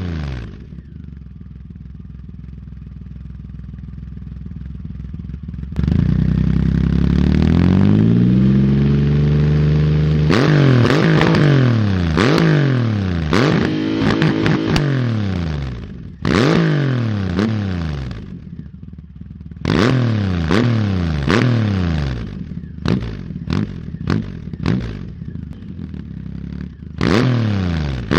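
Triumph Rocket III's 2.3-litre three-cylinder engine running through a custom stainless steel slip-on exhaust. It idles, is revved up slowly and held about six seconds in, drops back, then is blipped again and again with quick throttle stabs.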